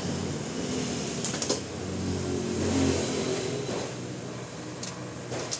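A motor running steadily with a low hum that swells slightly in the middle, with two sharp clicks about a second and a half in.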